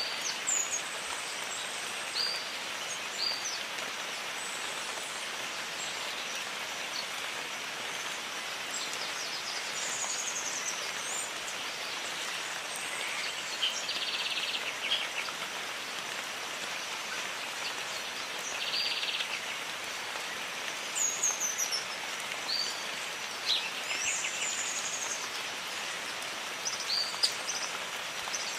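Steady jungle rain, an even hiss, with bird calls over it: scattered high chirps and slurred whistles, and several short buzzy trills.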